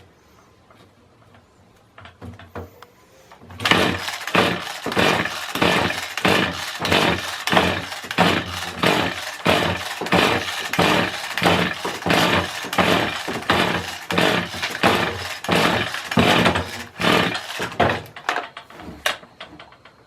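Kawasaki hedge trimmer's small two-stroke engine being pull-started over and over, a rough rasp of the recoil starter about twice a second for some fourteen seconds, the engine turning over without catching after a piston ring replacement.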